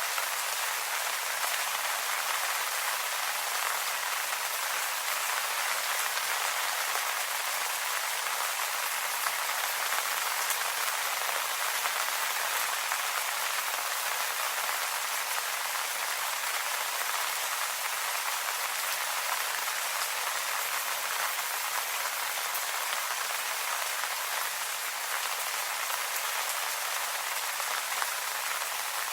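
Steady rain falling on leaves, an even patter with fine drop ticks throughout.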